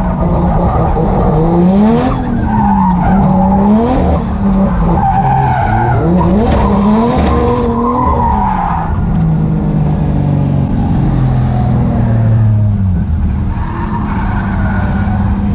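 A 1JZ straight-six engine in a drift car revving up and down repeatedly while the tires squeal. After about nine seconds the engine speed falls steadily and settles into a steady idle near the end.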